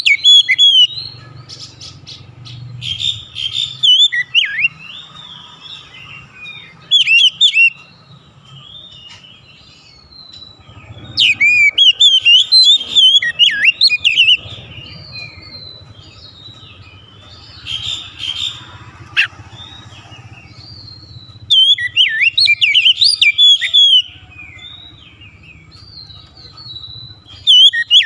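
Oriental magpie-robin singing: loud bursts of fast, varied whistled phrases lasting a second or three, repeated every few seconds, with softer warbling in between.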